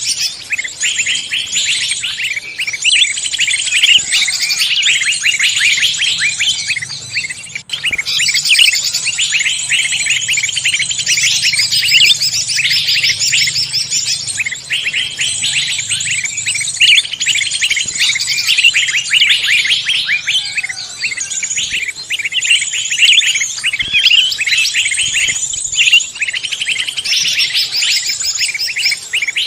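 A dense chorus of many forest songbirds chirping and trilling rapidly over one another, a mixed bird-lure recording. There is a brief break in the chorus about eight seconds in.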